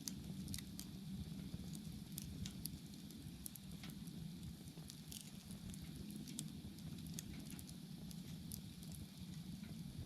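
Wood bonfire burning: scattered sharp crackles and pops over a low, steady rumble of the flames.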